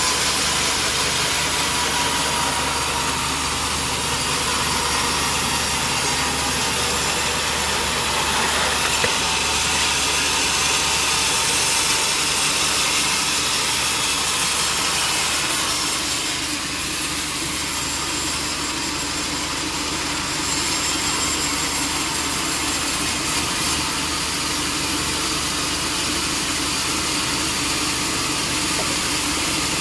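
Sawmill saw running steadily and cutting through durian wood, a continuous loud machine noise with a slight dip about halfway through.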